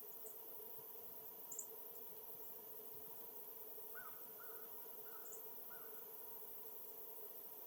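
Faint wild birds calling: a run of four short, repeated call notes starting about four seconds in, with a few brief high chips scattered through, over a steady background hum.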